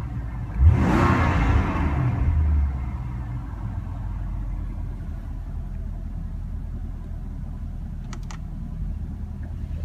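Porsche Panamera Turbo's 4.8-litre twin-turbo V8 revved sharply about a second in, then dropping back to a steady low idle. Two short clicks near the end.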